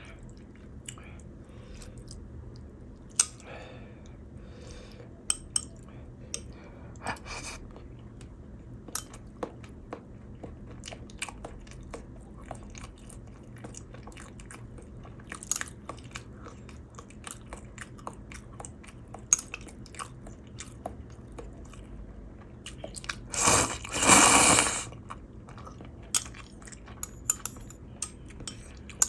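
Close-up sounds of a person eating ramen: chewing and crunching with many small mouth clicks, and one loud rush of noise lasting about two seconds roughly three-quarters of the way through.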